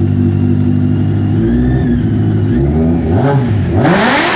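Honda CBR1100XX Super Blackbird's inline-four engine idling steadily, then two short throttle blips and a bigger rev about four seconds in that falls back toward idle. The engine is running again after repair work.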